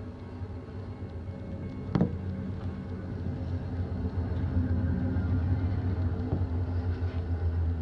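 Diesel locomotives of passing trains: a low, steady engine drone and rumble that grows louder, with a single sharp metallic clank about two seconds in.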